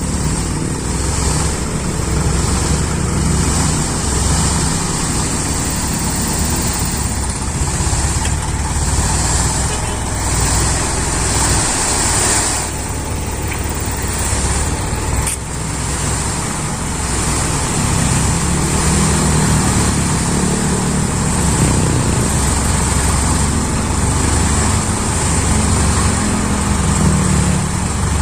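Isuzu Elf dump truck's diesel engine running steadily, its pitch wavering up and down in the later part.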